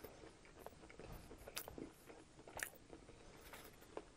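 Faint close-up chewing of a mouthful of breaded fried chicken sandwich, with a few soft crisp crunches of the coating about a second apart.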